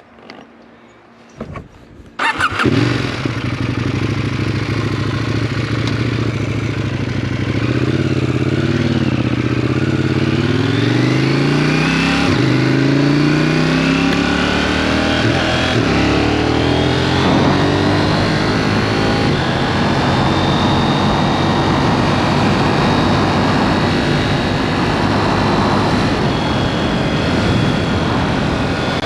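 KTM 790 Duke parallel-twin engine with an aftermarket SpeedPro Cobra exhaust starting about two seconds in after a couple of clicks, then idling. Its revs then rise in several steps broken by gear changes as the bike pulls away, settling into steady riding.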